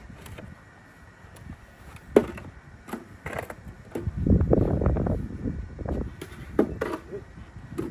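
Snow shovel scraping and knocking on a wooden porch and stairs, with a sharp knock about two seconds in and a couple more near the end. A low, uneven rumble swells in the middle.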